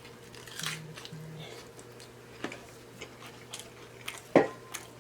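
Close-miked chewing and mouth smacking while eating a loaded taco, with small wet clicks, two short low hums early on, and one sharp loud bite about four and a half seconds in.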